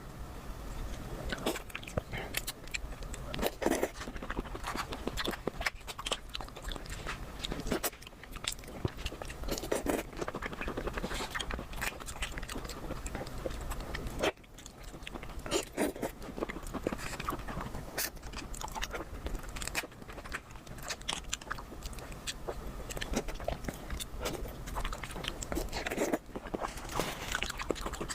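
A person eating close to the microphone: biting and chewing with crunching and many small, irregular mouth clicks.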